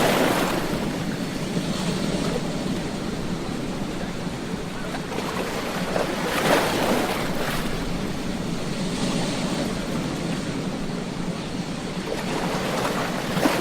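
Ocean surf on a beach: a continuous wash of water with waves breaking in slow surges, one swelling at the start, another about halfway through, and a third near the end.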